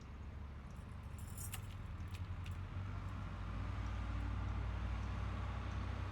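Brief metallic jingling, a couple of short shakes between about one and two and a half seconds in, with a low rumble that grows louder after that.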